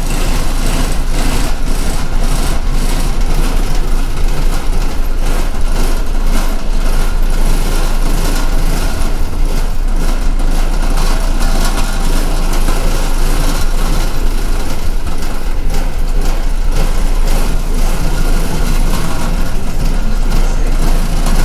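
Inside a moving city bus: its engine and drivetrain running steadily under continuous road noise, with occasional knocks and rattles from the cabin.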